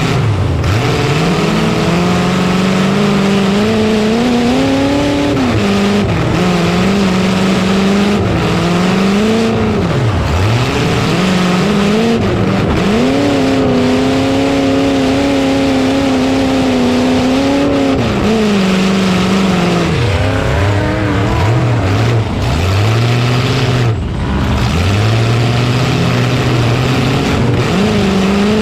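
Demolition derby truck engine revving hard, its pitch climbing, holding and dropping again many times as the driver accelerates and backs off, over a loud constant noise.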